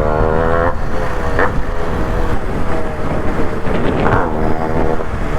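Two-stroke motorcycle engine with a modified exhaust being revved: its pitch climbs over the first second and breaks off, then it runs on with further blips of throttle around four seconds in.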